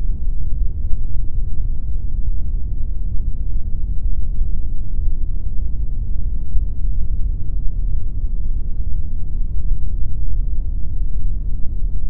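Steady pink noise: an even, unbroken rushing hiss, heaviest in the low end with little treble.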